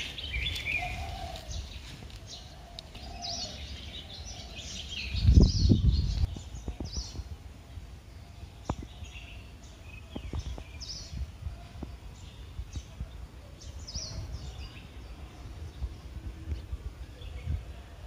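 Small birds chirping again and again in short, high calls over a low outdoor rumble. A brief, louder low rumble hits the microphone about five seconds in.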